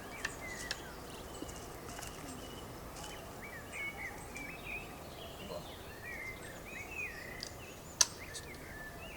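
Small birds chirping and twittering over a steady outdoor background hum, with a few sharp clicks, the loudest about eight seconds in.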